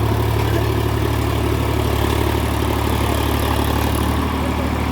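Solis 5015 tractor's diesel engine running steadily at a constant speed.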